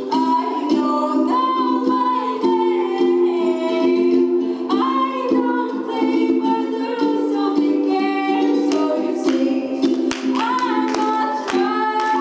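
A girl singing a song solo over instrumental accompaniment. Her sung phrases rise and fall over steady held chords that change every couple of seconds.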